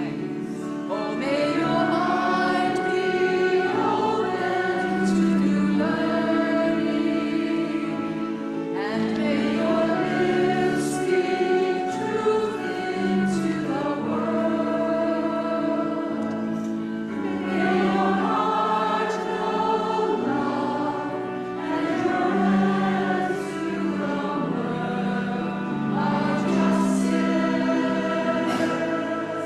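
A group of voices singing a hymn together, with long held low accompaniment notes beneath them.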